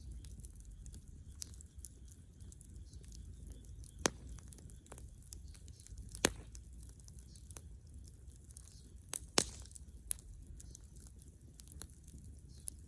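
Bonfire of dead wood and branches crackling, with scattered small snaps and a few sharp, louder pops: about four seconds in, about six seconds in, a close pair near nine seconds and another at ten.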